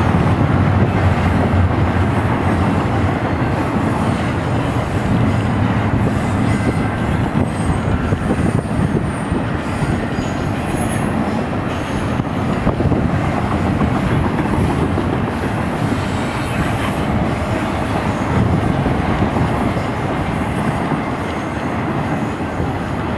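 Union Pacific intermodal double-stack freight cars rolling past: a steady loud rumble of steel wheels on rail, with a few faint, brief high-pitched wheel squeals.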